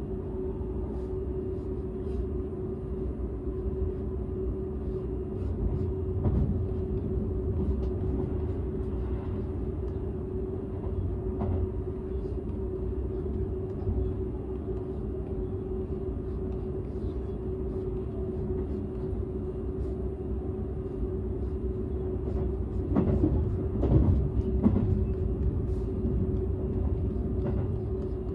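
Running noise inside the cabin of a Seibu 001 series Laview limited express, heard in its unpowered driving trailer car: a steady low rumble with a constant hum. There are a few louder knocks about 6 seconds in and again around 23 to 25 seconds in.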